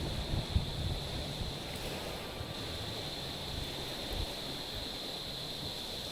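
Small waves lapping gently on a stony shore, a low, fairly even wash with a few soft bumps, under a faint steady high hiss.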